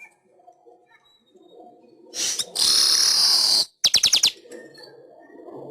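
Weaver bird (manyar) singing: a short buzzy note, then a loud harsh wheezing buzz lasting about a second, ending in a quick run of about six sharp clicking notes.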